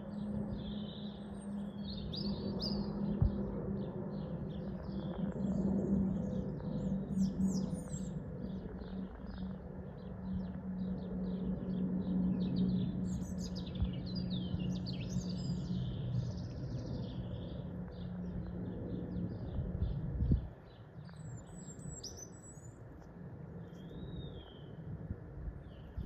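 Small birds chirping and twittering throughout, over a steady low hum that cuts off suddenly with a knock about 20 seconds in.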